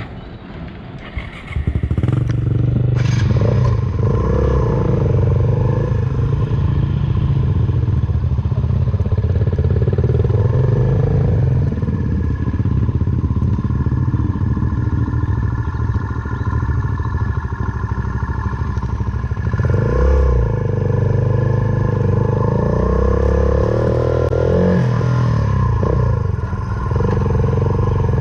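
Suzuki Van Van 125 motorcycle's single-cylinder four-stroke engine through an aftermarket full exhaust, picking up about two seconds in and then running under load while riding, its note shifting a few times with throttle and gear changes.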